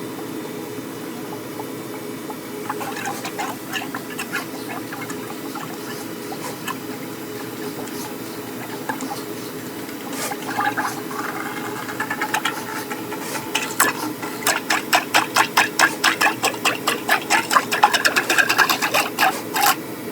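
Electric flexible-shaft drain cleaner running with a steady hum, its spinning wire working in the drain pipe. Scattered rattling clicks build, about two-thirds in, into a fast regular knocking of about three a second that stops abruptly near the end.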